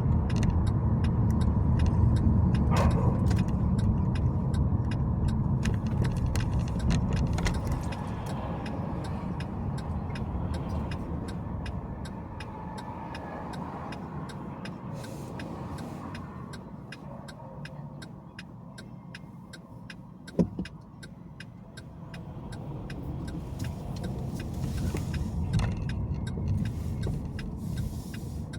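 Car driving on city streets: steady road and engine rumble that dies down as the car slows almost to a stop, then builds again as it picks up speed. A single sharp knock comes about twenty seconds in.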